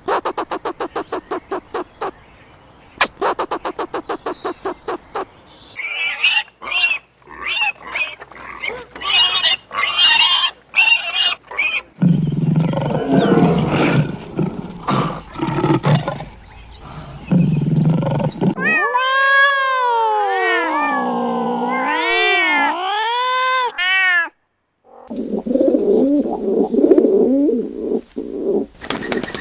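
A run of different animal calls, one after another: fast even pulsing calls, then high chirping calls, then low rough calls, then a long pitched call that swoops down and up several times, and low rough calls again near the end.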